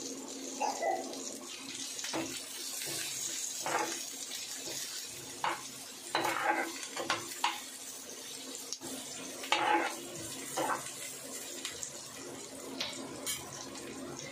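Sliced onions sizzling in oil in a nonstick frying pan, with a spatula scraping and stirring through them in short, irregular strokes.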